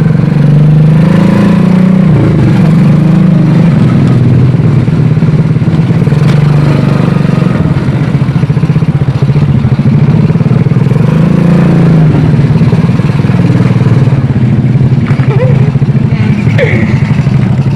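Honda Astrea Grand's small single-cylinder four-stroke engine running while riding, its note rising and falling with the throttle, climbing about a second in and again near the middle.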